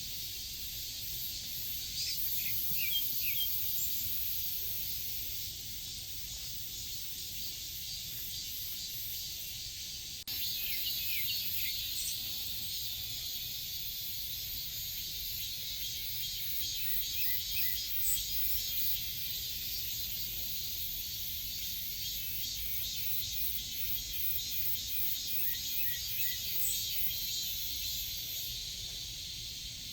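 Forest ambience: a steady, dense, high-pitched insect chorus with bird chirps scattered through it.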